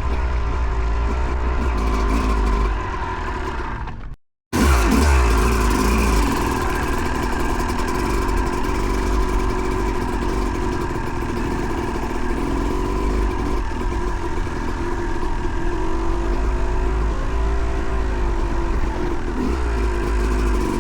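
Two-stroke single-cylinder dirt bike engine, a 2008 Yamaha YZ250, being ridden with the revs rising and falling through the gears, over a low rumble of wind and riding noise. The sound cuts out completely for a split second about four seconds in.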